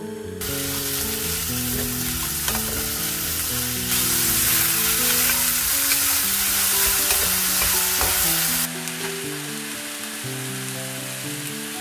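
Sliced bacon, onion, garlic and mushrooms sizzling as they sauté in a hot frying pan, stirred with a wooden spoon. The sizzle starts about half a second in, grows louder around four seconds in and drops back near nine seconds. Background music plays throughout.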